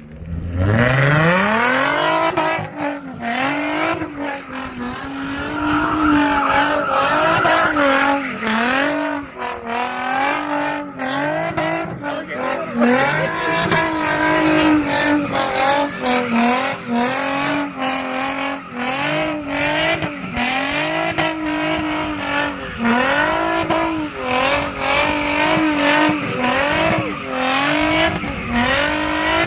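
Car engine revving hard, climbing steeply over the first two seconds and then held at high revs, dipping and rising again and again, with tyres squealing under wheelspin.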